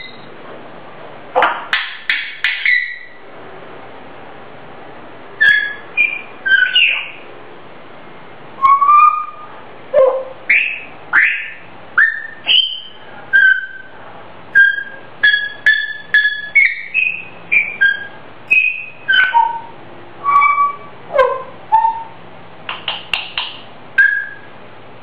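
Grey parrot whistling a tuneless made-up song: a long string of short whistled notes that slide up and down in pitch, with quick clusters of notes near the start and near the end.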